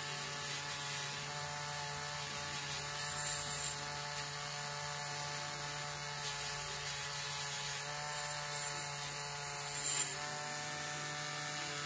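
Black & Decker Wizard rotary tool running with a wire-wool attachment, a steady high whine, as it buffs the paint-stripped die-cast body of a model car to a shine. Brief scratchy touches of the wire on the metal come about three seconds in and again near the end.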